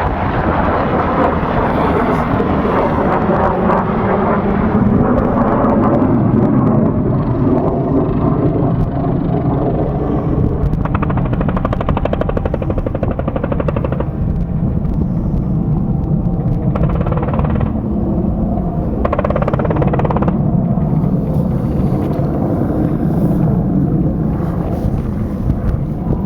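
Kiowa helicopter running steadily, its rotor and turbine noise loud and continuous with a fast pulsing from the rotor blades.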